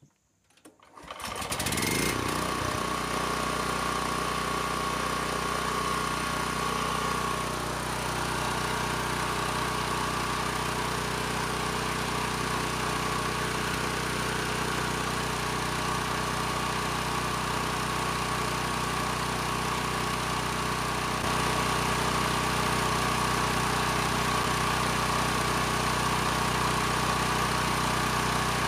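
Sportsman 9000-watt portable generator's engine starting about a second in, climbing quickly in pitch and settling into a steady, even run at governed speed.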